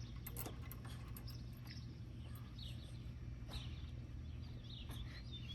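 Faint birds chirping in short scattered calls over a steady low outdoor hum, with a few soft clicks.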